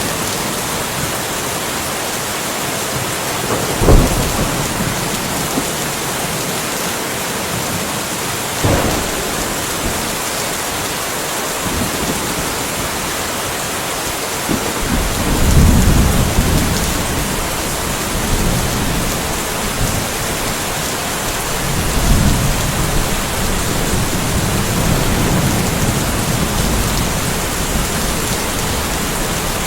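Steady rain with thunder: a sharp thunderclap about four seconds in and a smaller crack a few seconds later, then low rolling rumbles of thunder about halfway through and again near the end.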